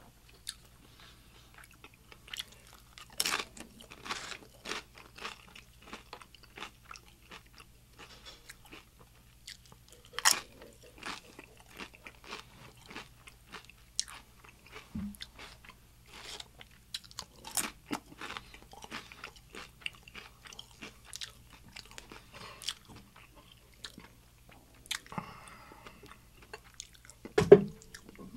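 Close-miked crunching and chewing of crisp tortilla chips: irregular sharp crackles, a few much louder than the rest. Near the end comes a single heavier knock.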